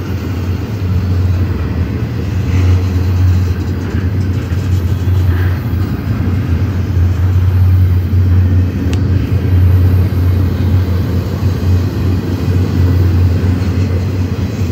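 Double-stack container freight train rolling past: a steady, loud rumble of steel wheels on the rails.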